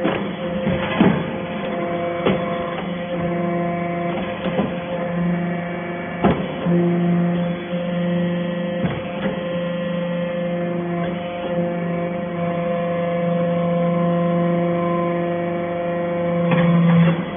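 Hydraulic steel shaving baler running: a steady motor and pump hum whose low note swells and eases in long stretches as the press works, with scattered metallic knocks and clanks.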